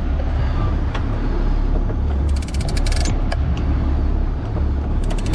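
Boat's engine rumbling low and steady under way, with two short bursts of rapid crisp clicking: one a little past two seconds in and one near the end.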